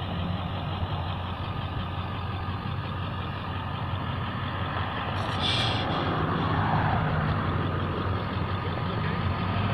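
Large vehicle engine idling with a steady low hum. A short hiss about five and a half seconds in.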